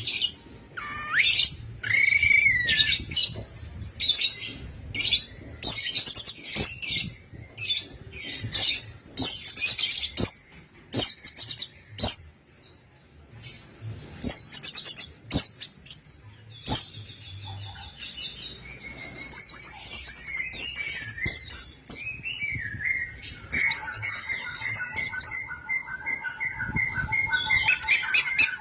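Orange-headed thrush singing: a fast, varied string of high trills and chirps in short phrases with brief pauses, then a run of evenly repeated lower notes from about two-thirds of the way in. Sharp clicks are scattered through it.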